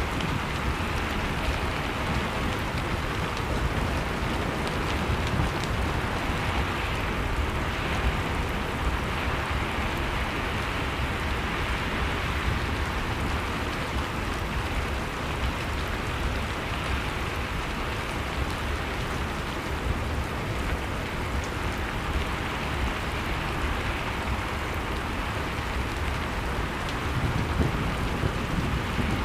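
Blizzard-and-fireplace ambience mix: a steady rush of storm wind with a low rumble, and a log fire crackling in small scattered pops.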